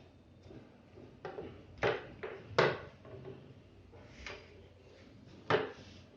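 Irregular knocks and clacks of the folding wardrobe's pipes and plastic corner joints being handled and pushed together, about six in all, the loudest near the middle and near the end.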